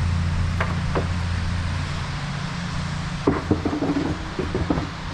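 Diesel passenger train's engine running at idle, a steady low hum, with a few light clicks and knocks in the second half.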